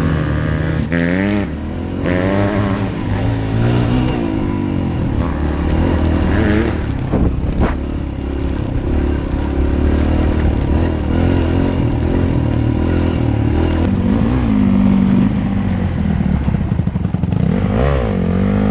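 Dirt bike engine running while being ridden, its pitch rising and falling as the throttle is opened and closed, with a few sharp clatters.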